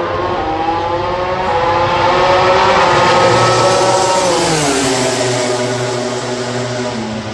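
MotoGP racing motorcycle engine at high revs going by on the track: the pitch climbs and grows louder to a peak about three seconds in, then drops sharply and the sound fades.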